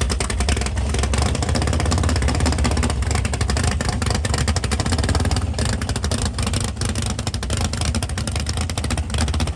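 A car engine running steadily, a heavy low throb made of rapid uneven firing pulses.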